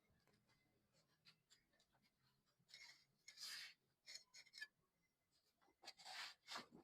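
Near silence with a few faint, brief rubs and light clicks, clustered about three seconds in and again near the end.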